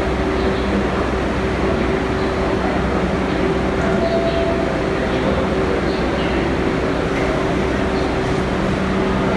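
New York City subway train sounding at a station platform: a steady, loud rumble with a constant hum, holding even throughout with no sudden changes.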